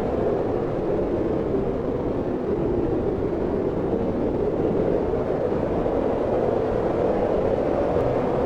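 Wind blowing steadily, a continuous low rushing noise with no gusts standing out.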